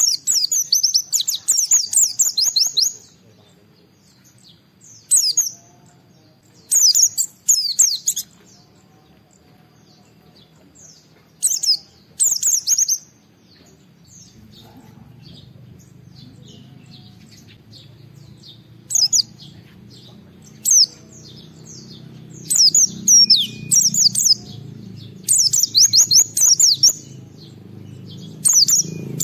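White-eye (pleci) singing hard in rapid, high, chattering phrases of one to three seconds, repeated about ten times with short pauses between. A low background hum grows louder in the second half.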